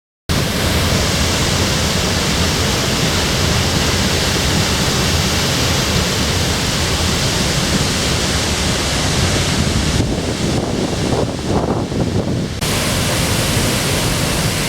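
Waterfall rushing loudly as a steady roar of falling water, starting abruptly a moment in. About two-thirds of the way through it turns briefly muffled several times, then comes back to full strength.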